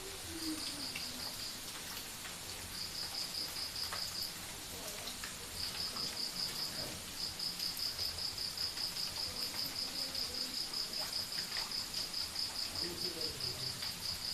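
Cricket chirping in short trains of rapid, high-pitched pulses that become a steady unbroken trill about halfway through, over a soft hiss with scattered faint ticks.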